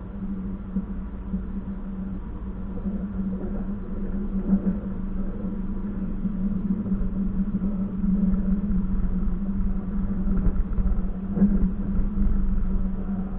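Passenger train running: a steady low rumble with a constant hum, growing somewhat louder in the second half, with a few short knocks.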